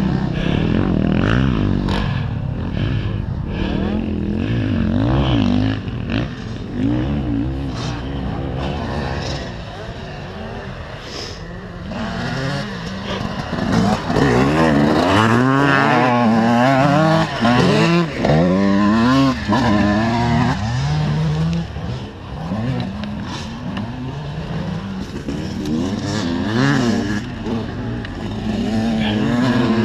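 125 cc motocross bikes running on a track, their engines revving up and down as they accelerate and shut off. The engines are loudest and closest from about 14 to 21 seconds in.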